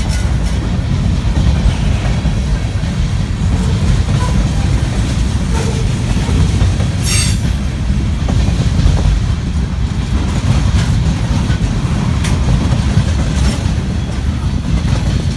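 Freight train rolling slowly past with a steady low rumble, scattered clicks of wheels over rail joints, and one brief wheel squeal about seven seconds in.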